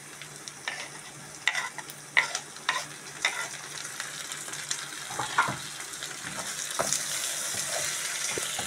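Beef and onions sizzling in a frying pot while chopped green pepper and garlic are scraped in off a wooden chopping board and stirred with a wooden spoon. There are several sharp knocks of board and spoon against the pot in the first few seconds, and the sizzle grows louder near the end.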